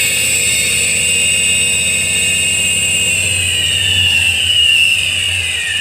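Alternator test rig driving an Iveco alternator with a faulty overrunning pulley, giving a steady high-pitched whine; some of the tones slide down in pitch over the last couple of seconds. The free-wheel pulley is slipping under charging load, leaving the rotor standing still.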